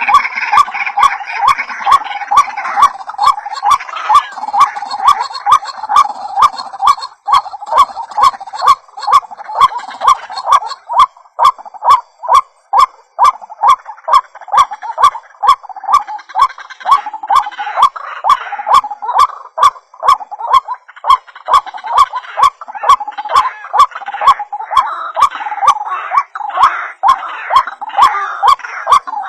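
White-breasted waterhen (ruak-ruak) calling over and over in a fast, even rhythm of about two notes a second, with a sharp click on each note. This is a recorded call played as a lure to draw waterhens in.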